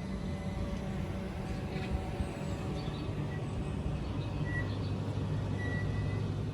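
Class 387 electric multiple unit standing at the platform, giving off a steady low electric hum that drops in pitch about four seconds in, with a few short high tones.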